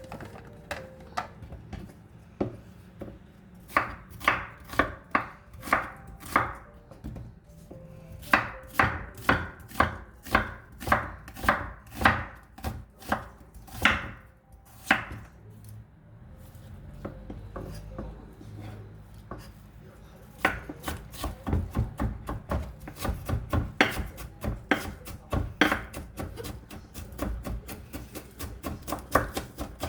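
Kitchen knife mincing onion on a cutting board: sharp knocks about two a second in short runs. The knocking stops for a few seconds midway, then resumes faster.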